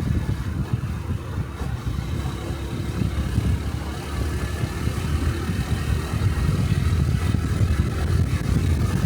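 Honda Cub 125 motorcycle's single-cylinder four-stroke engine running under way, a steady rumble from the engine and exhaust.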